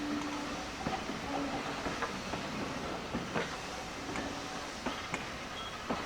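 A train running on the heritage railway: steady rumble with irregular clicks and knocks.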